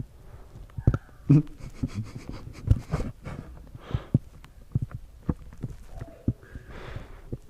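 Handling noise from a GoPro camera being fumbled with: irregular knocks and clicks on its body and microphone, with a couple of soft breath-like rushes of air.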